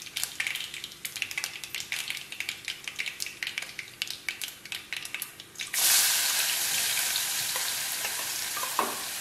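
Mustard seeds and other tempering spices crackling and popping in hot oil in a kadhai. About two-thirds of the way through, chopped onion is tipped in and the pan breaks into a loud, steady sizzle.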